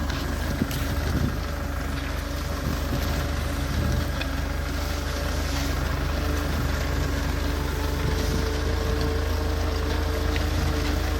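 Tractor engine running steadily with a low drone while pulling a disc plough through soil.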